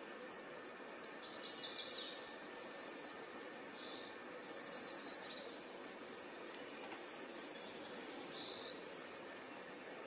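A warbler singing: several short phrases of fast, high notes, the loudest about five seconds in, over a faint steady hiss.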